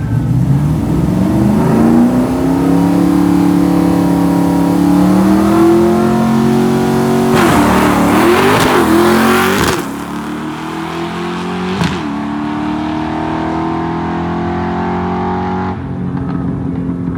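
Drag car's V8 under hard acceleration, its pitch climbing steadily through a long pull. A rough, noisy stretch with wavering pitch comes partway through, then the engine drops and climbs again in another long pull. The sound falls off sharply near the end.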